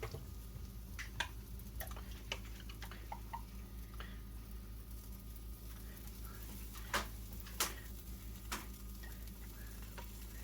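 Scattered light clicks and taps of a utensil against the batter bowl and pan while pancake batter is portioned out, the loudest two a little past the middle, over a low steady hum.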